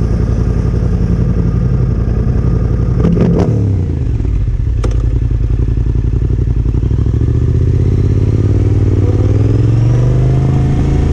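Yamaha Ténéré 700's parallel-twin engine running through a Yoshimura R-12 exhaust while riding. About three seconds in there are sharp clicks and a brief drop in engine pitch, and from about two-thirds of the way through the pitch rises steadily as the bike accelerates.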